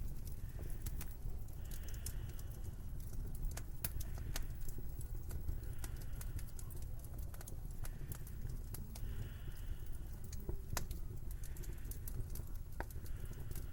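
Wood fire crackling in a fireplace: irregular sharp pops and snaps over a low steady rumble, with now and then a brief soft hiss.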